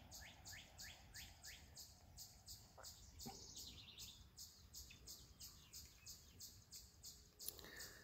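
Faint bird chirps: a high, even chirp repeating about three times a second, with short runs of quick downward-sliding chirps near the start and again about three seconds in.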